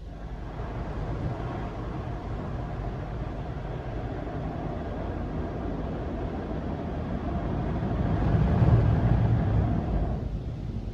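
Mark VII ChoiceWash XT soft-touch car wash running through its cycle: a steady rush of machinery and spray that swells about eight to nine seconds in and drops off about ten seconds in.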